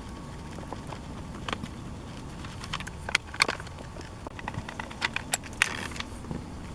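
Irregular metallic clicks, taps and clinks of hand tools and small parts being handled while a Husqvarna 61 chainsaw engine is taken apart, with a brief scrape near the end.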